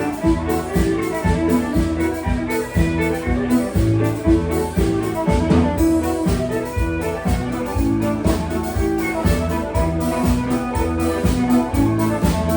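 Live contra dance band playing a fiddle tune: fiddle lead over keyboard and percussion, with a steady beat.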